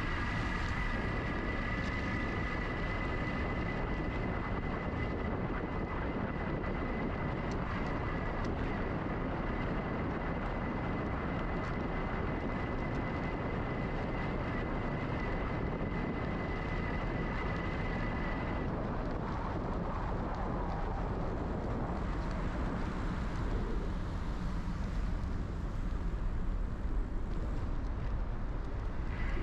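Riding a GoCycle GX electric bike: steady wind rumble on the camera microphone with a constant high whine from the e-bike motor, which cuts out about two-thirds of the way through.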